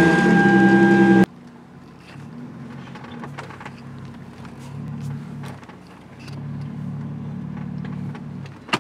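Hyundai Genesis Coupe engine just started, running loud with a steady high whine, then cutting off abruptly about a second in. After that the engine idles quietly, heard from inside the cabin.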